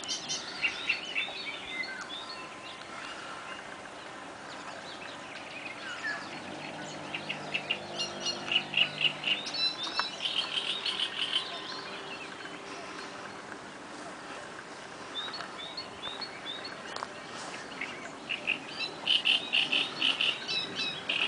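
Birds singing, in repeated bursts of fast, chattering notes that come in again and again and are loudest about eight to eleven seconds in and near the end.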